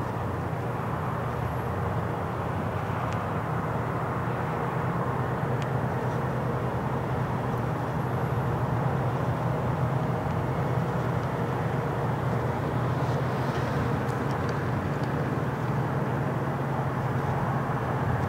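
Steady rumble of aircraft engines running on an airport flightline, slowly growing a little louder.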